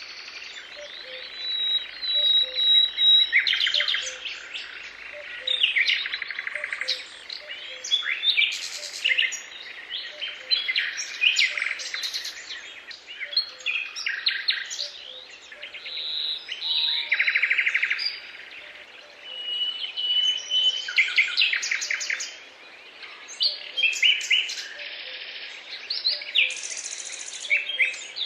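Several songbirds singing and calling at once, a dense run of chirps, rapid trills and short whistled notes that overlap without pause.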